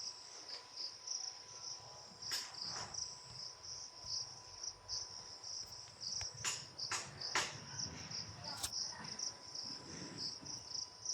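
Crickets chirring steadily in a fast, even pulse, with a few sharp clicks over it in the middle of the stretch.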